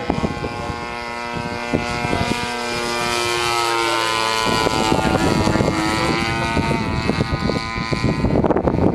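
Propeller aircraft engine running at takeoff power on the takeoff roll, a steady drone that slowly grows louder, with frequent rattles and knocks. Rushing wind noise takes over near the end.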